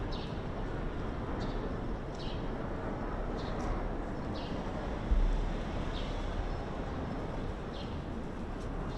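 Outdoor city-park ambience: a steady background rumble of distant urban traffic with short, high chirps from a bird, repeated every half second to a second and each falling in pitch. A brief low thump comes about five seconds in.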